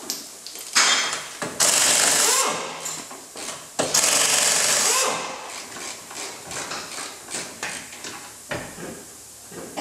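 Workshop tool noise: two loud rasping bursts, the first about one and a half seconds in and the second about four seconds in, with scattered knocks and clatter between and after them.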